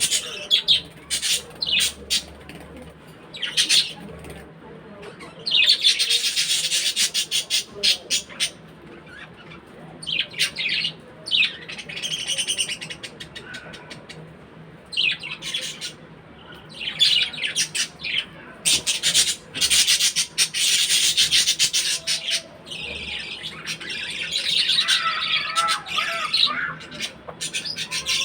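Budgerigars chattering and chirping in quick high bursts that come and go, with warbling near the end.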